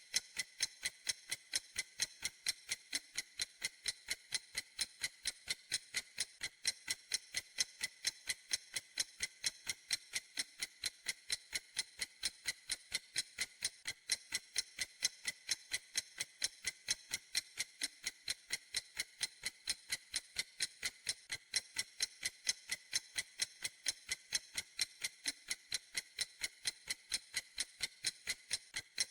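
Clock ticking: a steady, even run of light, sharp ticks, several a second, with no change in pace.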